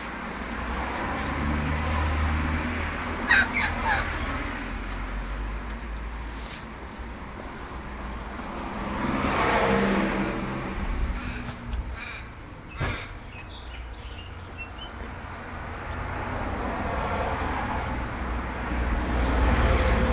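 Wild birds calling, a cluster of short calls a few seconds in and more scattered through, over a low steady rumble, with a louder swell near the middle.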